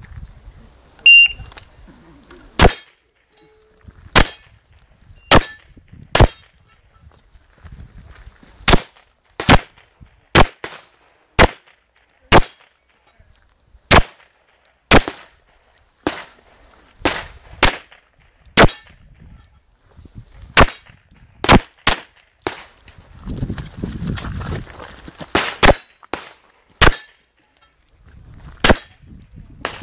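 Electronic shot timer's start beep about a second in, then handgun shots fired one by one at irregular intervals, mixed with the clang of steel targets being hit. Near the end a few shots come in quick succession.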